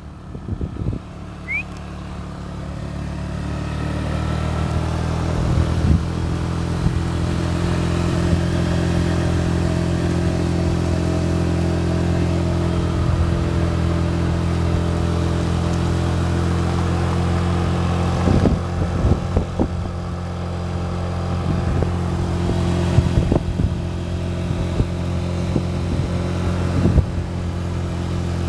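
A motor engine running steadily, growing louder over the first several seconds and then holding level, with a few short knocks.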